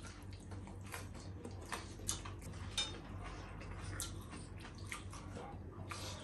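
Two people chewing and lip-smacking as they eat breaded chicken nuggets, an irregular scatter of wet clicks and smacks over a steady low hum.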